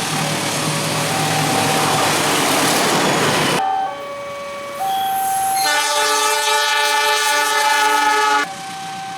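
A level-crossing warning alarm sounds two alternating tones throughout. For the first three and a half seconds a passing train's rolling clatter and rumble covers it. Later a train horn blows a multi-note chord for about three seconds.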